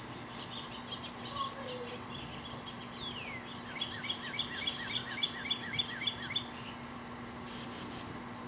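A bird singing: one downward whistle, then a run of about nine quick falling chirps at roughly four a second, over a steady low hum.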